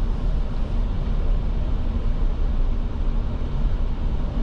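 Steady low rumble of a truck's engine and tyres heard from inside the cabin with the windows up, driving across a grass field.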